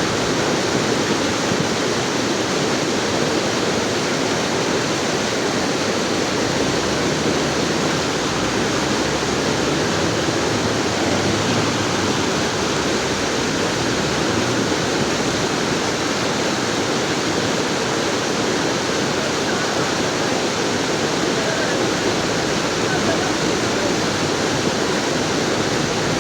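Rushing water, a steady unbroken roar that does not change.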